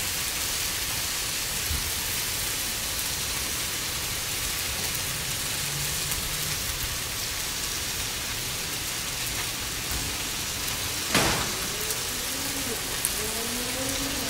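Chicken and vegetable stir-fry sizzling steadily on a hot Blackstone steel griddle as stir-fry sauce is squeezed onto it, with one sharp knock about eleven seconds in.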